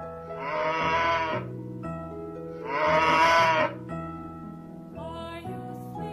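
A cow mooing twice, each moo about a second long, over gentle background music with sustained notes.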